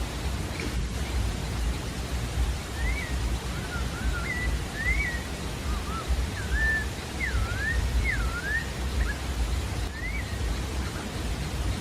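A sabiá-da-várzea singing a string of short slurred whistled notes, each rising or falling in pitch, starting a few seconds in and stopping near the end, over a steady low background rumble.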